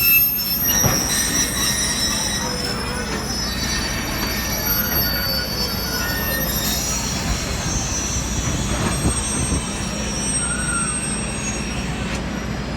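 Excursion train moving on the rails, its steel wheels squealing against the rails over a steady low rumble; the squeal comes and goes.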